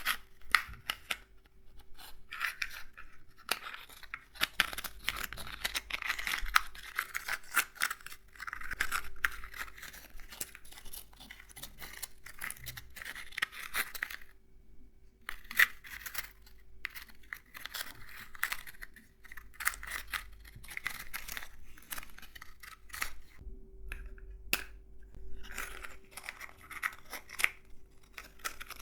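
Nuts being handled and rattled against one another: dense, fast clicking and crackling in bursts, with brief pauses about four seconds in and again around the middle.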